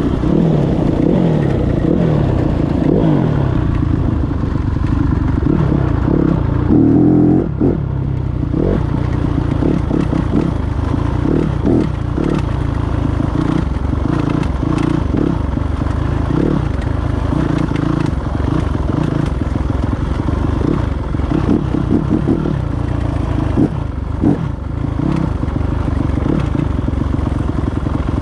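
Yamaha YZ250F dirt bike's 250 cc single-cylinder four-stroke engine running under throttle, its pitch rising and falling again and again as it is revved and let off.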